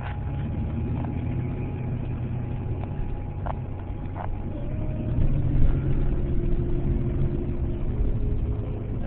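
Ford F150 pickup truck's engine running with a steady low rumble that grows louder about five seconds in.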